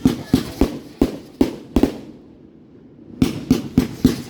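Fireworks going off in quick strings of sharp bangs, about three a second. There is a pause of about a second in the middle, then another string begins.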